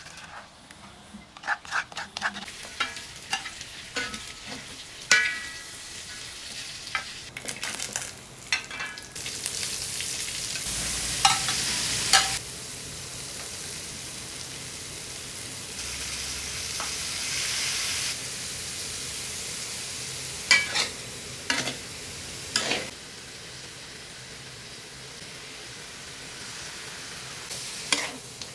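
Chicken frying in a hot pan, sizzling with a steady hiss while being stirred, with a utensil knocking and scraping against the pan. The sizzle swells louder twice through the middle, and sharp clanks come in clusters.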